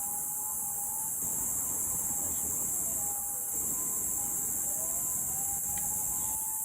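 An emergency-vehicle siren, switching between two tones and gliding up and down in a wail, over a steady high hiss.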